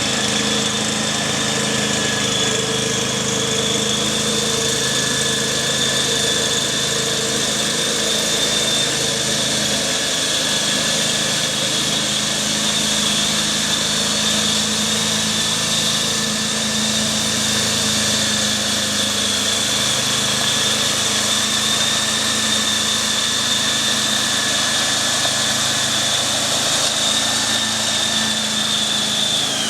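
Walk-behind power tiller's engine running steadily, with a high steady whine over the engine noise that glides down in pitch right at the end.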